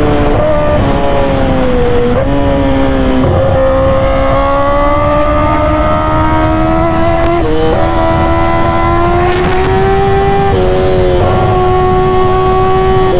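Kawasaki ZX-10R inline-four sportbike running through an SC Project aftermarket exhaust while being ridden, its engine note holding steady and then stepping and gliding in pitch several times as the throttle and gears change, over a constant low rush.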